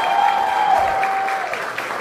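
Audience applauding, with a long high-pitched cheer held over the clapping that falls away about one and a half seconds in.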